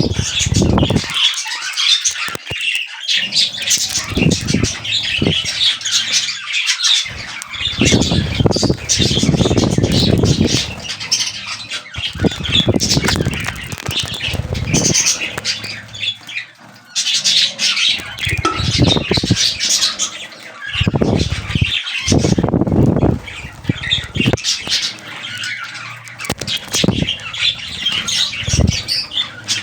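Budgerigars chattering and squawking in a dense, continuous stream of high chirps, with short bursts of lower rustling or fluttering every few seconds.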